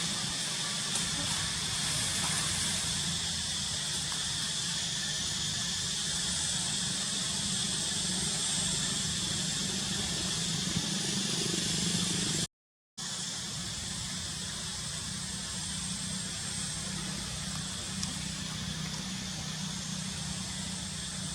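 Steady hiss-like outdoor background noise with a low hum underneath, broken by a half-second gap of silence a little past halfway.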